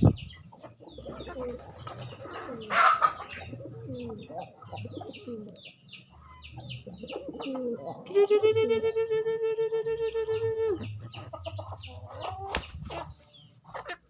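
Pigeons cooing over and over amid many quick high cheeping calls from the fowl, with a short rush of wing flaps about three seconds in. Past the middle, a loud steady held tone lasts nearly three seconds.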